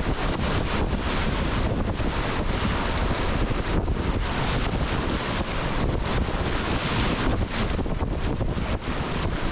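Rushing whitewater of a small class II rapid, splashing irregularly against a kayak, with the rush buffeting the camera's microphone.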